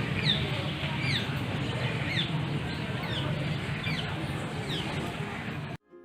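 A bird repeating a short, high, falling chirp about every three-quarters of a second over a steady low rumble. The sound cuts off abruptly near the end.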